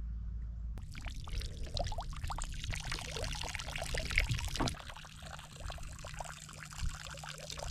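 Water splashing and trickling in many small irregular splashes, starting suddenly about a second in.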